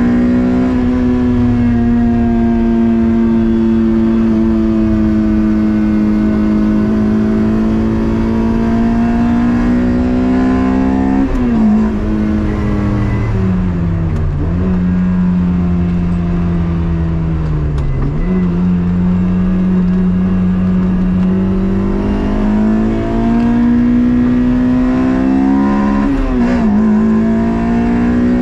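Toyota MR2's swapped 2ZZ four-cylinder engine running hard at high revs, its pitch slowly climbing under load. The pitch drops sharply about a third of the way in, dips twice more, then climbs again with another sharp drop near the end, as gears change and the car slows for corners.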